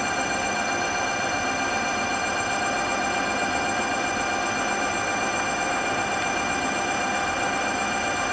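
Brushless gearless 1000W rear hub motor on an electric bike running at a steady speed: a constant whine of several high tones over steady tyre and wind rush.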